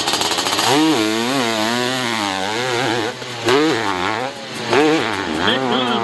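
Hill-climb dirt bike engine revving hard, its pitch surging up and falling back again and again as the throttle is worked, with brief drops in level about three seconds in and again a second later.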